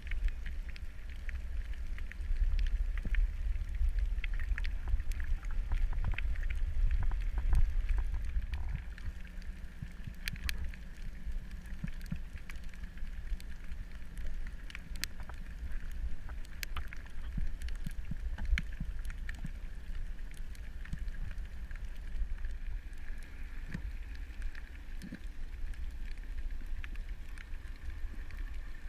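Underwater ambience heard through a camera: a steady low rumble with many scattered short clicks and crackles.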